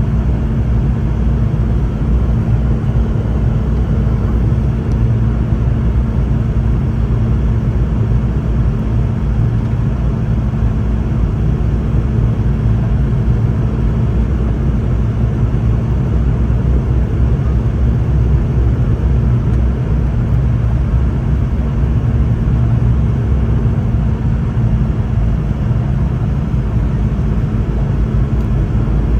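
Cabin noise inside a Boeing 717-200 airliner: a steady rumble of its rear-mounted Rolls-Royce BR715 turbofans and airflow, with a level low hum and no change in pitch or loudness.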